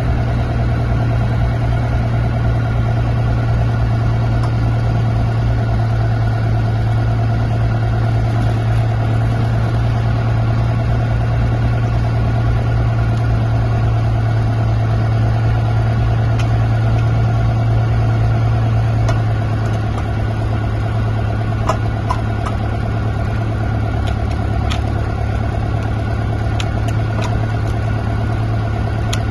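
A motor running steadily with a constant low hum. It eases slightly about twenty seconds in, and a few light clicks come near the end.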